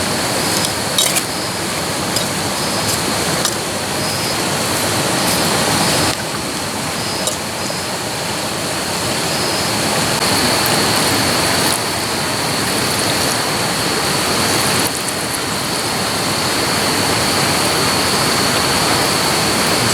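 Food frying in hot oil: a steady, loud sizzle with a few sharp spatter crackles in the first seconds, the level jumping at a couple of cuts.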